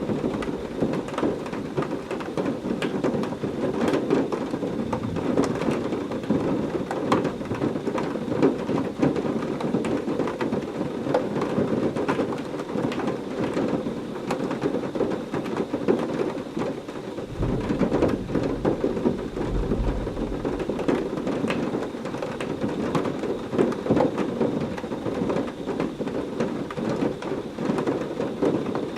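Heavy rain falling steadily, a dense hiss full of small drop impacts, with a deep rumble of thunder rolling in about seventeen seconds in and lasting a few seconds.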